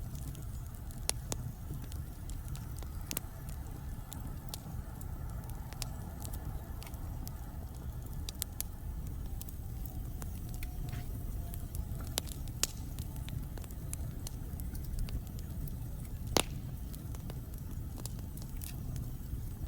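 Wood fire burning in a fireplace: a steady low rumble from the flames, with scattered sharp crackles and pops from the burning logs. The loudest pop comes about sixteen seconds in.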